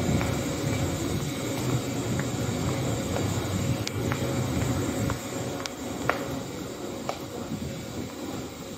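Low steady rumble of an electric train standing at a station platform, easing off in the second half, with a few faint scattered clicks.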